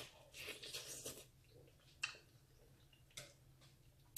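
Faint close-miked eating sounds: a green-lipped mussel bitten and chewed, a short noisy stretch in the first second, then two sharp mouth clicks about a second apart.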